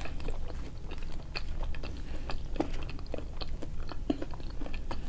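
Close-miked chewing of fast food: scattered soft, irregular mouth clicks and smacks, with a low steady hum underneath.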